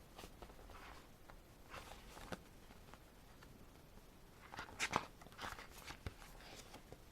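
Pages of a glossy album photobook being turned and handled: faint, scattered paper rustles and crinkles, with the loudest rustle about five seconds in.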